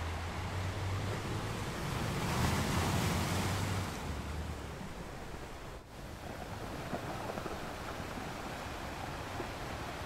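Ocean surf breaking and washing up a sandy shore, a steady rushing wash that swells a couple of seconds in and then eases off.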